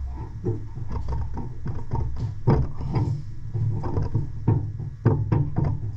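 Irregular clicks and knocks of hand tools and hands working at the stuck steering wheel and shaft of a vintage garden tractor, over a steady low hum.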